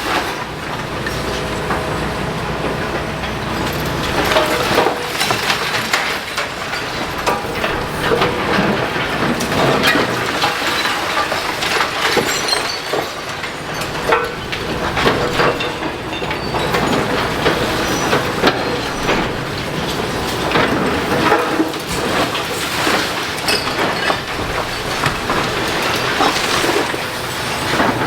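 Excavator demolishing a building: its engine runs steadily under a continuous, irregular clatter of breaking masonry and splintering timber.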